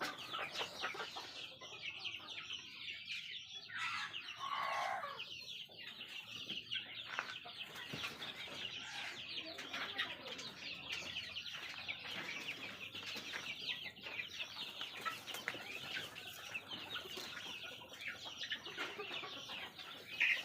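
Flock of young native (desi) chickens cheeping and clucking without a break, many short high calls overlapping, with one longer, lower call about four seconds in.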